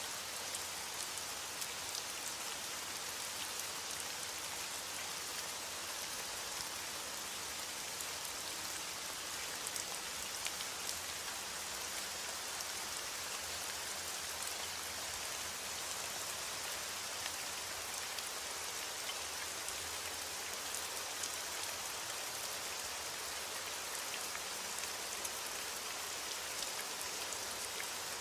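Heavy rain falling steadily on a window: a dense, even hiss with many faint ticks scattered through it.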